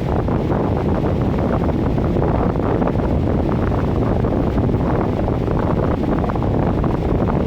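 Miller E3 electric furnace's blower running, a steady rush of air and motor noise.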